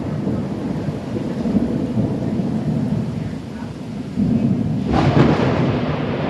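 Severe thunderstorm: a continuous low rumble of thunder and wind over rain noise, with a sudden louder, brighter surge of rain and wind about five seconds in.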